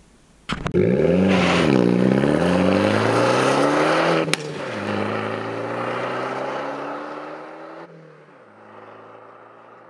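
Car engine revving hard, its pitch rising and falling, with a sharp crack about four seconds in. It then pulls again more steadily and fades away near the end.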